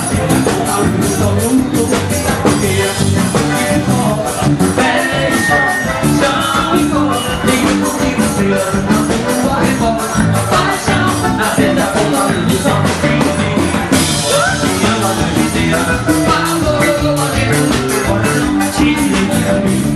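Live forró band music with a fast, steady percussion beat.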